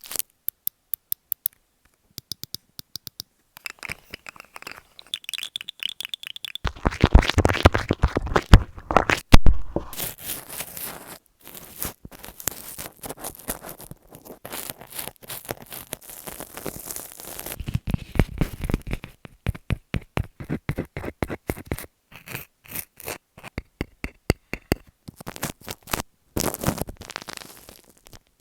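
A rapid series of different close-up ASMR trigger sounds on an earphone microphone, switching about once a second: runs of quick clicks and taps alternating with scratching, scraping and rustling.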